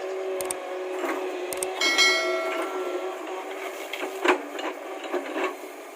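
Excavator running with a steady hum, with scattered knocks and clicks and a metallic clang that rings briefly about two seconds in.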